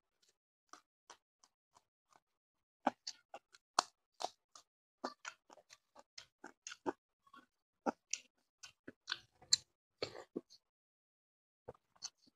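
Chewing and wet mouth sounds of a man eating a raw green chili with rice and fish curry: a run of short sharp clicks and smacks, sparse at first, densest in the middle, then a pause and a few more near the end.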